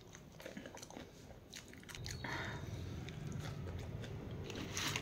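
A person chewing and biting crunchy food close to the microphone, with crisp crunches through the first couple of seconds. A low steady hum comes in about two seconds in.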